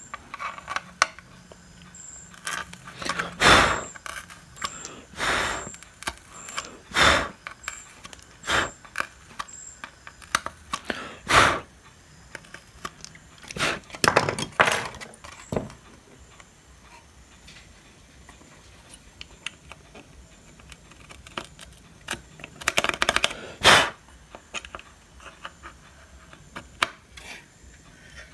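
Scraping and rubbing strokes on a home theater unit's steel case, with light metallic clinks, as rust is cleaned off the spot where the power transformer mounts. The strokes come irregularly, in short bursts with pauses between them.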